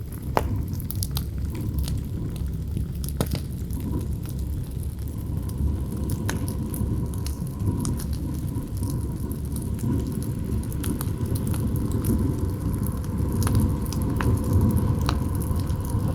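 Campfire crackling with irregular sharp pops over a steady low rumble of wind. A faint, thin howl of wind comes in about four seconds in.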